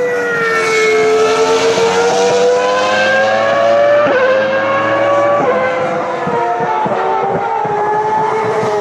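Ferrari racing car engine at high revs on track. Its pitch climbs slowly for the first few seconds, with brief steps like gear changes, then falls away gradually.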